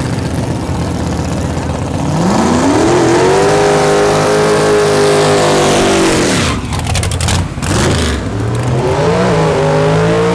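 Drag-racing truck engine at full throttle. After a steady rumble its pitch climbs about two seconds in and holds high for several seconds. It falls away about six and a half seconds in, and an engine note rises again near the end.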